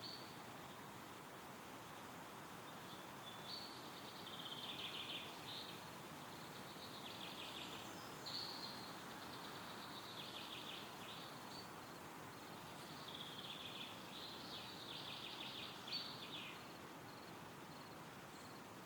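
Wind rustling steadily through trees, with a songbird singing several short, quick trilled phrases a second or two long every few seconds.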